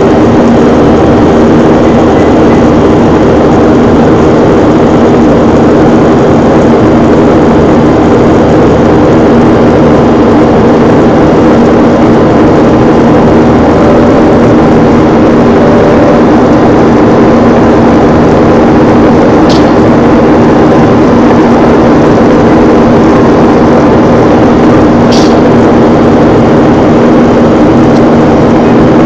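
Jet airliner engines and airflow heard from inside the cabin, a loud, steady noise with a constant low hum that does not change in pitch. Two faint, brief clicks come a little past the middle.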